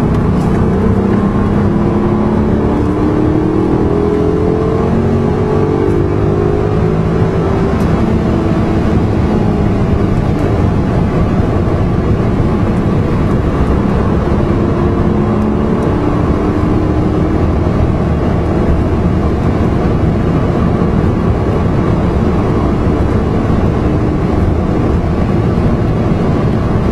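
Car engine running at speed under heavy wind and road noise, its pitch rising several times as it accelerates.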